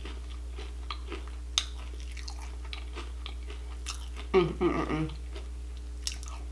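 A person chewing crunchy Honey Bunches of Oats cereal in milk, heard up close as scattered small crunches and clicks. A short hummed 'mm' comes a little over four seconds in.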